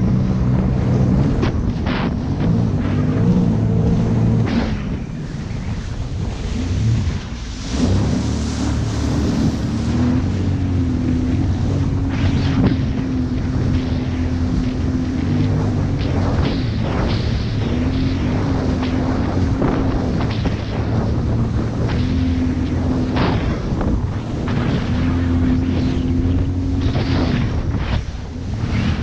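Jet ski engine running on the water, its pitch rising and falling with the throttle. It eases off briefly about seven seconds in, then picks back up. Wind buffets the microphone and water splashes throughout.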